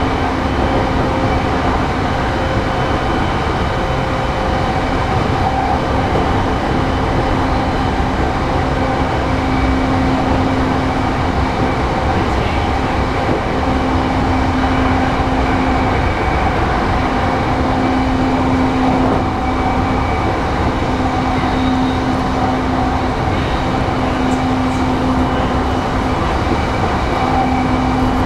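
Interior running noise of a JR East E233-3000 series electric commuter train at speed: a steady rumble of wheels and running gear on the track, with a low hum that comes and goes every couple of seconds.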